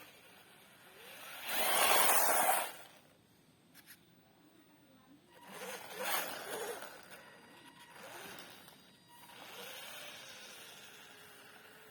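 Radio-controlled drift car sliding past in a series of hissing tyre scrapes, the loudest about two seconds in, a second around six seconds, and two softer ones near the end.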